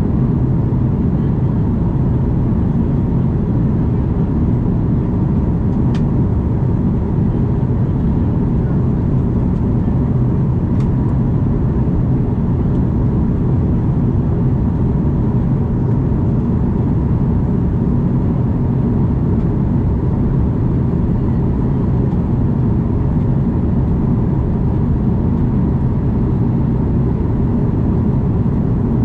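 Steady cabin roar of an Airbus A330 airliner, jet engine and airflow noise heard from inside the cabin: a constant low rumble with a steady hum.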